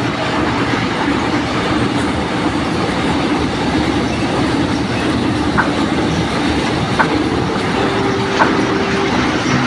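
Train running on the rails, a steady rumble of rolling wagons with a few short, sharp metallic sounds in the second half.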